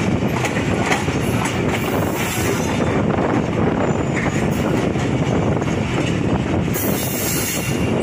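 Passenger train rolling slowly out of a station, heard from a coach doorway: a steady rumble of wheels on rail, with a few sharp clicks in the first couple of seconds.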